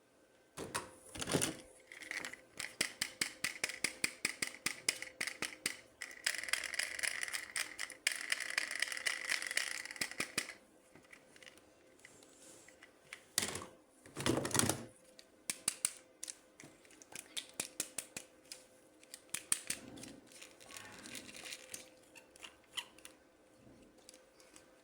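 Toy packaging being handled and opened by hand: quick runs of sharp plastic clicks and ticks, a few seconds of crinkling and rustling, and a couple of dull thuds.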